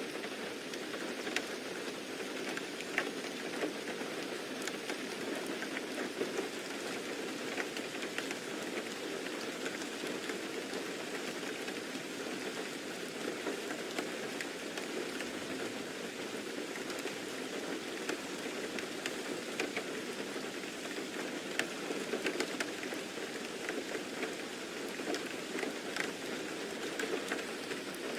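Steady rainfall with a dense patter of drops hitting a surface.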